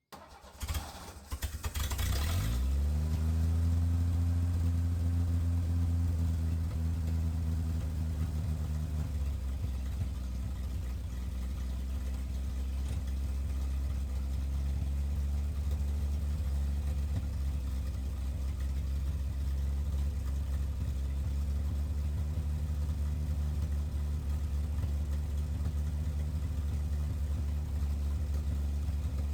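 1968 Chevy C20's inline-six cranks on the starter for about two seconds, catches and starts on its freshly rebuilt Rochester Monojet carburetor. It runs at a fast idle that settles lower about ten seconds in, then idles steadily.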